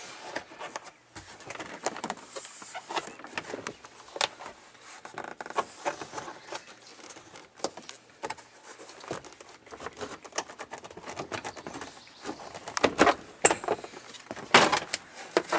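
Plastic interior trim panels being pried loose and handled: irregular clicks, taps and rattles, with a few louder knocks near the end.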